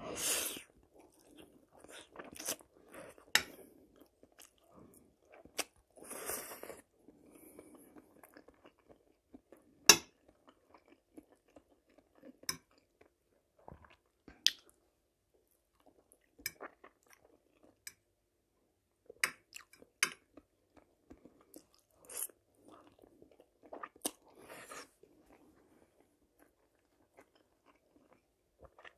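Close-up eating sounds of a person chewing spaghetti with fried forest mushrooms: soft wet chewing and mouth noises, a noodle slurp at the start, and sharp clicks scattered through.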